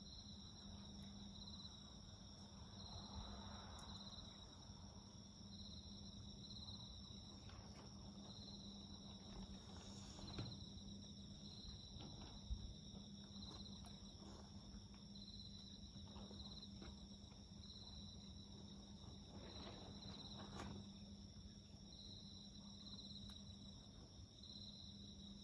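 Insects chirping in a faint, steady pulsing rhythm, under the occasional soft crackle and pop of a wood campfire, the sharpest pop about halfway through. A low steady hum runs beneath.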